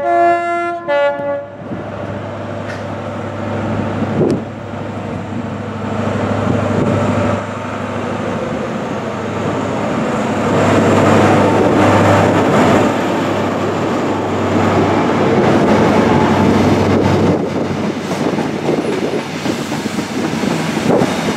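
A train horn sounds a short two-tone blast at the start. Then an LNER HST, a Class 43 diesel power car hauling Mk3 coaches, passes at speed: a steady diesel hum and the clatter of wheels over the rail joints, loudest in the middle of the pass.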